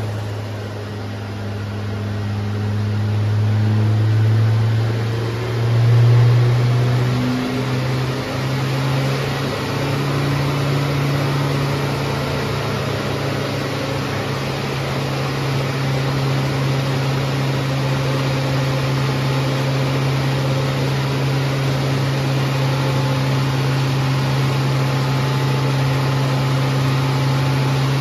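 Turbocharged 8-valve four-cylinder engine of an MK3 Golf GTI running. Its revs swell briefly a few seconds in, then settle to a steady, slightly higher note for the rest of the time.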